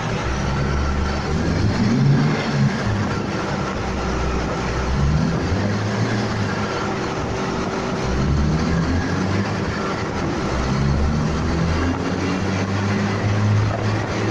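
Turbocharged BMW M50B25 straight-six running on a chassis dyno. Its pitch steps and glides up and down at moderate revs rather than climbing in one long pull.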